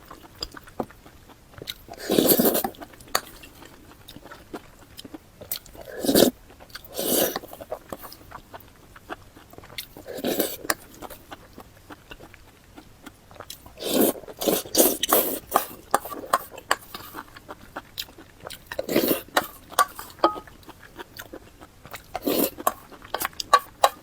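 Close-miked eating: bites and chewing in separate bursts every few seconds, with many small sharp clicks between them.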